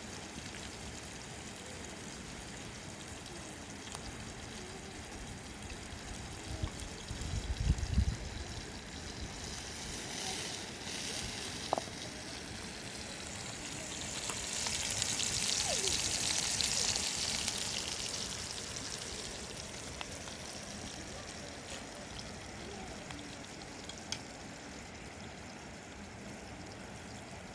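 Running water with a steady hiss that swells louder for several seconds past the middle, and a few low bumps about seven seconds in.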